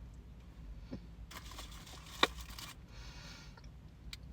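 Someone chewing a large raspberry: soft wet mouth noises and crackles, with one sharp mouth click about two seconds in.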